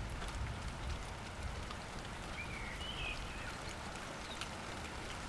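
Light rain falling steadily, with scattered drips ticking and a low rumble in the first second or so. A short bird chirp sounds about halfway through.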